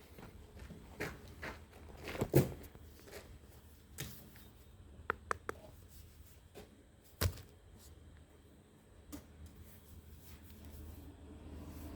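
Scattered knocks and clicks of hard objects being handled, with two louder knocks about two and seven seconds in and a quick run of small clicks in between.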